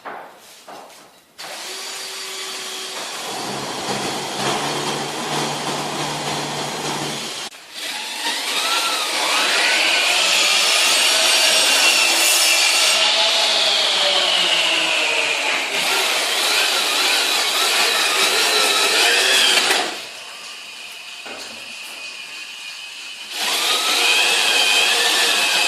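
Angle grinder grinding the edge of a glazed ceramic stove tile to take off a glaze run, its whine wavering as it bites in. It stops about twenty seconds in and starts again a few seconds later.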